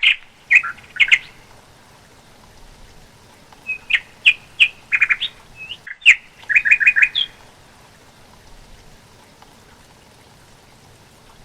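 Songbird chirping in three quick bursts of short, high notes, over a faint steady background hiss.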